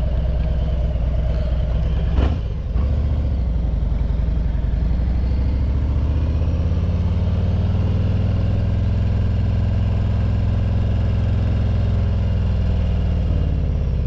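Harley-Davidson Road Glide Limited V-twin on the road through Vance and Hines Eliminator 400 slip-on mufflers, heard from inside the rider's helmet. Its note is steady and fairly throaty, with a brief knock about two seconds in. The note then rises gradually through the middle as the bike pulls.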